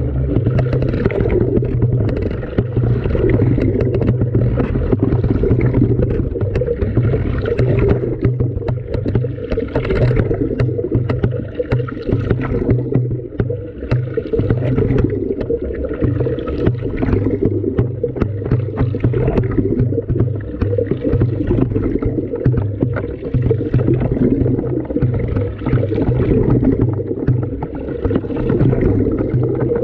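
An LG washing machine's wash cycle heard from inside the drum: muffled, continuous water sloshing and churning that swells and eases, with many small clicks and knocks of things tumbling in the drum.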